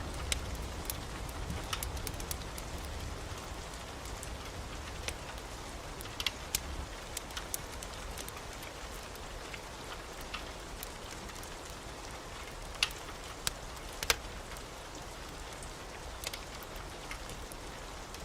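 Steady heavy rain with scattered sharp ticks and pops. A low rumble of thunder dies away over the first few seconds.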